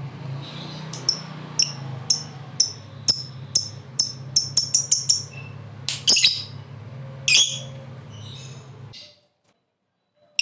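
Lovebird calling in short, sharp, high chirps that quicken into a fast chattering run, then a few louder calls; it falls silent about nine seconds in. A low steady hum sits underneath until then.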